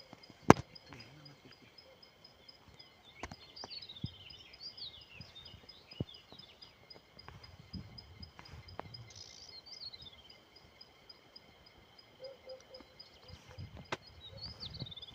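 Forest birds singing: falling, twittering phrases come and go over a high note repeated rapidly and steadily. Several sharp clicks or knocks are scattered through, the loudest about half a second in.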